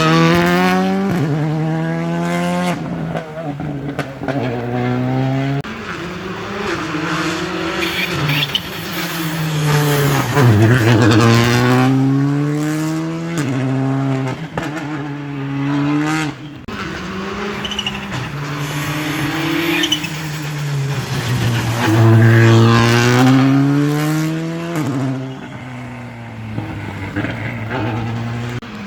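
Rally car engines at full throttle on a special stage, the pitch climbing through each gear and dropping at every shift. The engines are loudest near the start, about eleven seconds in and again about twenty-two seconds in.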